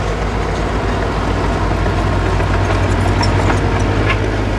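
Diesel engine of earthmoving machinery running steadily with an even low drone, and a few light metallic clinks about three to four seconds in.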